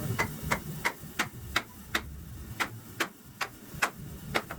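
A quick, even run of sharp light taps, about three a second, from hand-tool work on a wooden cart wheel.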